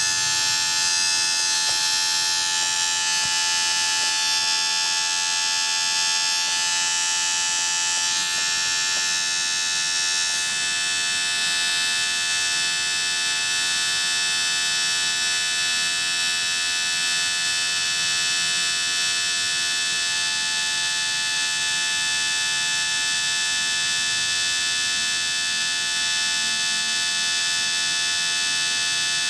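Small electric motor running with a steady buzzing whine made of many fixed tones; its high, hissy part shifts about eight to ten seconds in, then holds steady.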